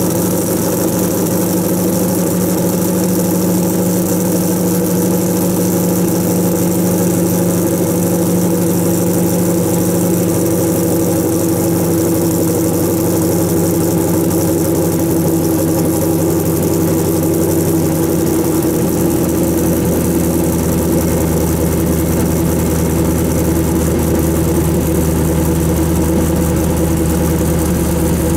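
2000 Chevrolet Camaro Z28's LS1 V8, fitted with a Speed Inc cam and Kooks long-tube headers, idling at the tailpipes just after a cold start. The idle runs steady, then drops to a lower speed about two-thirds of the way through.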